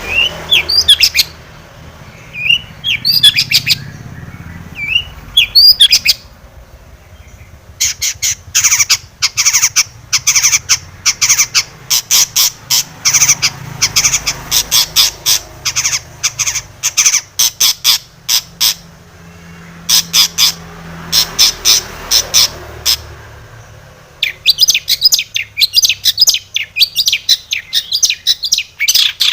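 Long-tailed shrike (cendet) calling: a few short rising chirps at first, then long runs of rapid, sharp repeated notes in bursts with short pauses.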